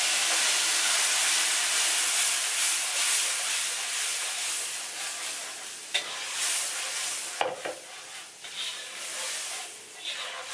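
Blended chili paste sizzling hard in hot oil in a wok as it is poured in from a blender jug. The sizzle eases after about five seconds, with a couple of knocks as the jug is scraped out with a spatula against the wok.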